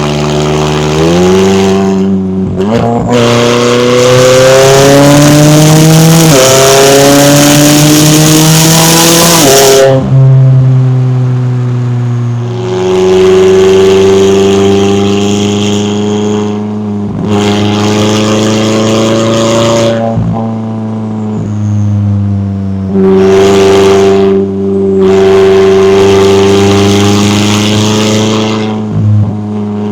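McLaren 570S's twin-turbo V8 accelerating hard through several upshifts, the engine note climbing and then dropping back at each shift over the first ten seconds. After that it runs at a steadier pitch, with short lifts and gear changes every few seconds.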